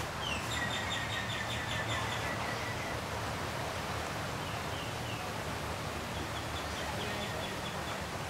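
A bird calling in quick runs of short high notes, twice, over a steady low hum.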